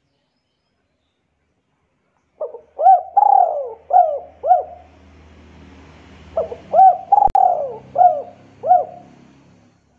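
A bird calling: two phrases of about five quick rising-and-falling notes each, a couple of seconds apart, with one sharp click during the second phrase.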